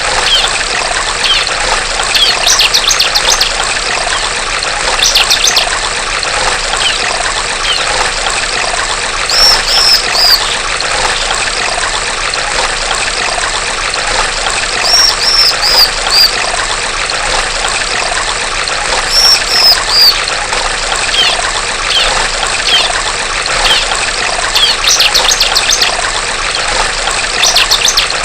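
Female ciblek (bar-winged prinia) calling in repeated short bursts of rapid high notes and groups of three or four clear notes, every few seconds, over a steady trickle of flowing water.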